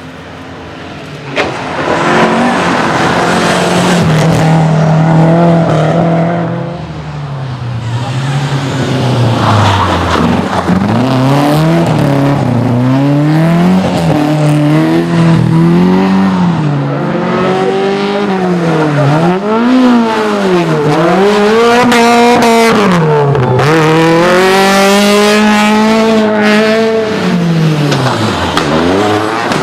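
Rally car engine driven hard on a stage, revving up and dropping back again and again with gear changes and lifts of the throttle. It comes in loud about a second and a half in, and the rise-and-fall swings come quicker in the second half.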